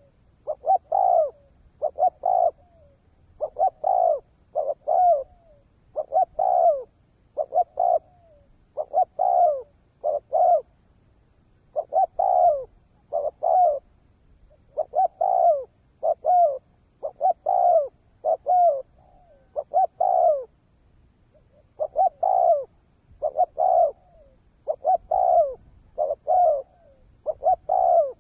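Spotted dove (cu gáy) cooing in a fast, steady run: short phrases of two or three coos, the last note falling, repeated about every second and a half. This is the rapid, well-patterned cooing of a decoy bird that is used to draw in wild doves.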